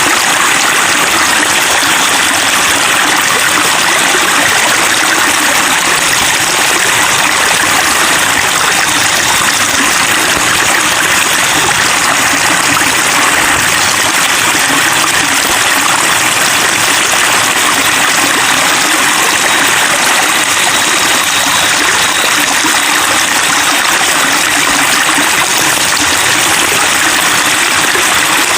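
Running water babbling steadily, a continuous splashing and trickling with no pauses.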